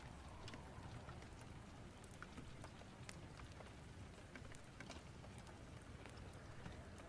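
Faint rain storm and fireplace ambience: a steady hiss of rain with scattered sharp ticks and crackles throughout.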